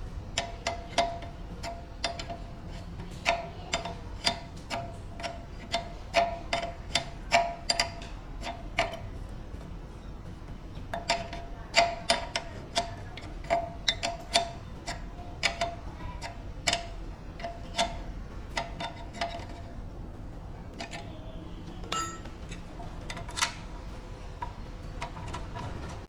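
Repeated sharp metal-on-metal strikes, each ringing briefly at the same pitch, about two a second in two long runs separated by a short pause, with a few single knocks near the end, typical of hammering or tapping on a compressor part during restoration.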